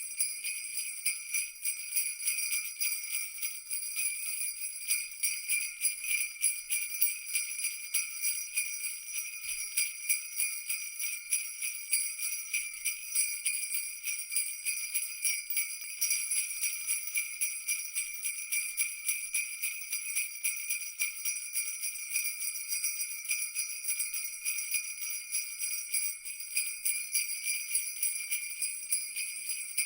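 Jingle bells shaken continuously in a fast, even rattle, a bright high ringing with no pause.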